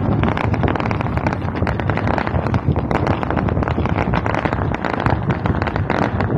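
Aerial fireworks bursting: dense, rapid crackling and popping from many shells going off at once, over a steady low rumble.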